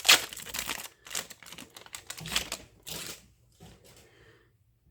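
Foil wrapper of a baseball card pack being torn open and crinkled, starting with one sharp loud rip and then a run of crinkling that fades out about three seconds in.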